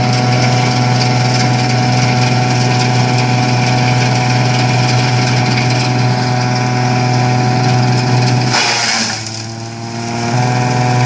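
Tractor-driven coconut leaf cutter-shredder running steadily with the tractor engine. About eight and a half seconds in the pitch drops and the sound turns rougher and dips for a couple of seconds.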